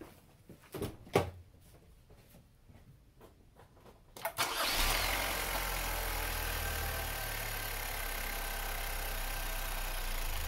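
A knock about a second in. About four seconds in, the Chevy Cruze's 1.4 L turbocharged LE2 four-cylinder engine starts and settles into a steady idle. It has just been refilled with oil after an oil change and runs until the oil-pressure light goes out.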